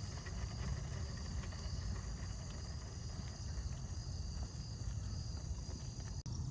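Steady outdoor background noise: a low rumble with a faint, even, insect-like high drone over it. It cuts out briefly near the end.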